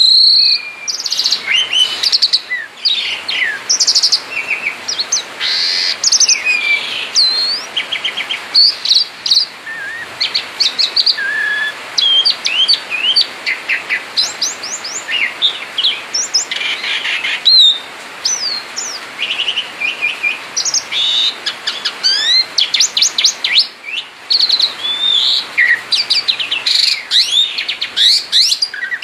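Songbird singing a busy, varied stream of chirps, whistled notes and rapid trills, almost without pause.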